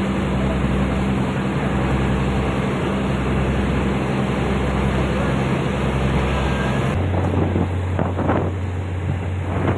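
Diesel train engine running steadily. About seven seconds in its note changes to a lower, steady hum, and a couple of short sounds follow near the end.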